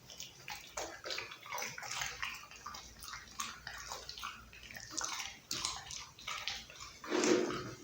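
Pit bull chewing raw chicken close to the microphone: a steady run of wet smacking and crackling chews, with a louder wet gulp or lick about seven seconds in.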